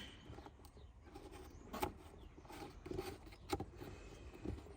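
A few faint, sharp clicks and knocks over a quiet background: parts being handled in an open car engine bay.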